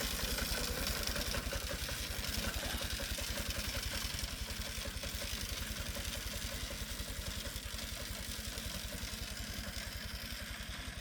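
Engine idling with an even, rapid low beat that grows gradually fainter.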